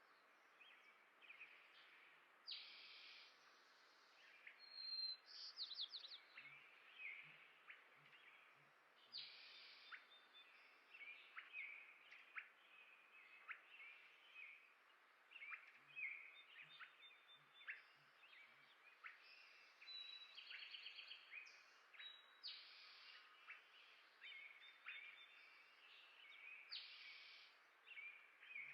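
Songbirds at a feeder, quietly chirping and calling: many short chirps, trills and quick whistled notes, one after another, over a steady hiss. Two runs of faint low taps come through under the calls.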